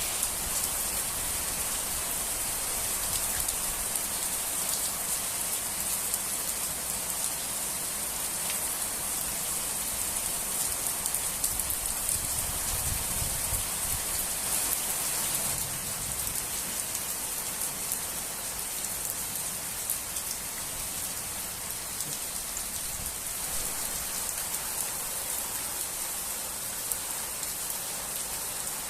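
Steady, gentle rain falling and pattering on surfaces, with many small drop ticks.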